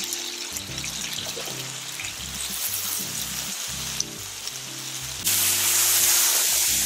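Background music with a steady bass line over the sizzle of chicken and tomato frying in a large steel paella pan as it is stirred with a metal spoon. The sizzle gets louder about five seconds in.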